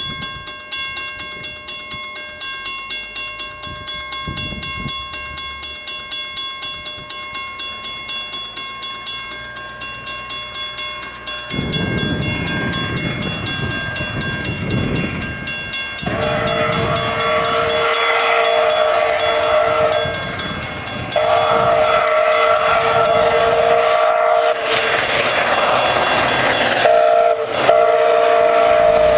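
Canadian Pacific steam locomotive 2816 approaching and passing. A ringing tone pulses about twice a second at first, then the train's rushing noise grows louder about a third of the way in. Its steam whistle then sounds three long blasts, each several tones at once, the last running on.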